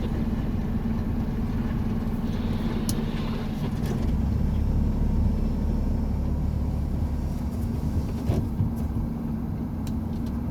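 Truck engine and road noise while driving: a steady low drone that grows heavier for a few seconds in the middle, with a few faint clicks.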